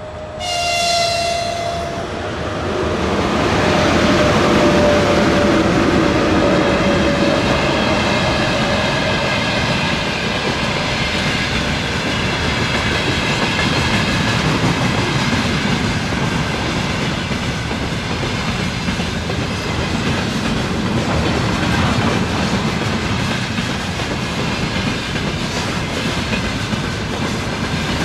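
A Russian electric freight locomotive sounds a short horn blast about a second in. Then a freight train passes close by, its wheels clattering steadily over the rail joints.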